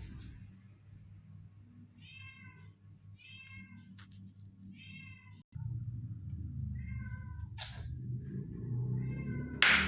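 A cat meowing five times in short calls, with a sharp click near the end. A low steady hum runs underneath and gets louder from about halfway.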